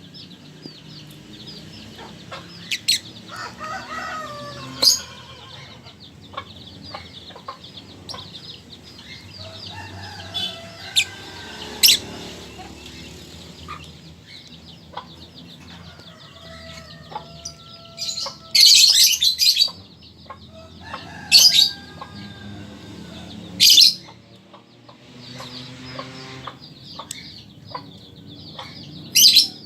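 Lovebird chirping constantly, with loud shrill calls breaking out every few seconds and one longer rapid chattering run about two thirds of the way through.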